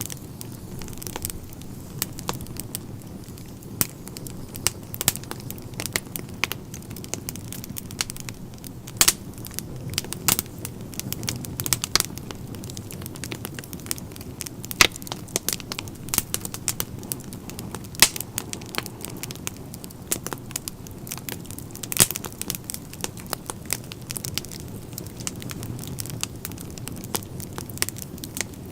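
Wood fire crackling in a fireplace: irregular sharp pops and snaps, some louder than others, over a steady low rumble of flames.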